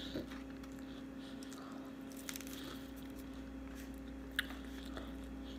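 Faint chewing of fried food, with a few small mouth clicks and a sharper click about four seconds in, over a steady low hum.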